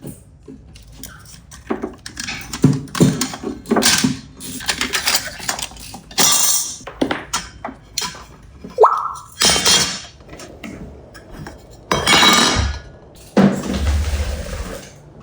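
Clinks, knocks and clatter of a screwdriver and metal electrical outlet parts being handled, with a few rougher scraping bursts and one short rising-and-falling whistle about nine seconds in.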